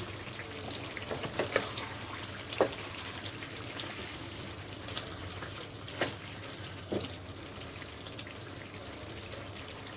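Chicken caldereta stew cooking in a pan: a steady low sizzle with a few short sharp ticks scattered through it, as the dish finishes cooking.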